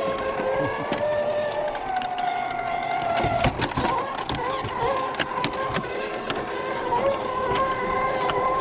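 Electric motor and gear drivetrain of a scale RC crawler truck whining steadily, shifting pitch a few times with the throttle, while frequent clicks and knocks come from the tires and chassis working over rough ground.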